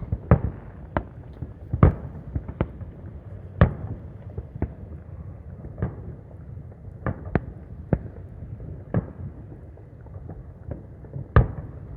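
Fireworks going off: an irregular series of bangs and pops, the loudest about two seconds in, about three and a half seconds in, and near the end.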